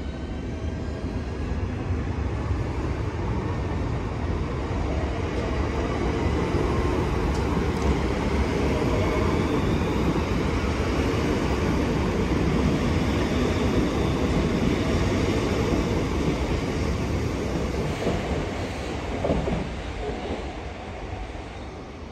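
Southeastern Highspeed Class 395 electric train pulling out and accelerating past, with a whine from its traction motors at the start. Wheel and rail noise builds to a steady loud rumble through the middle, then fades near the end as the last carriages leave.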